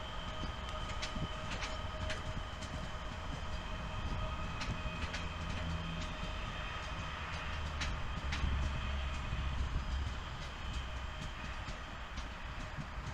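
Electric multiple-unit passenger trains rolling slowly through a rail yard: a low rumble that swells about two-thirds of the way through, a steady whine, and scattered sharp clicks of wheels over rail joints.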